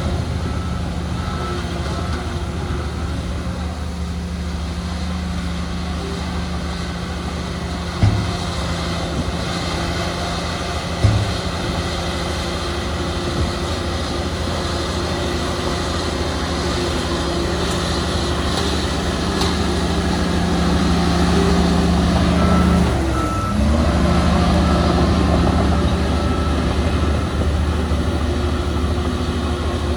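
Heavy diesel earthmoving machinery running steadily, its engine note dipping briefly about three-quarters of the way through. A reversing alarm beeps at the start and again from about three-quarters through, and two sharp knocks come about a third of the way in.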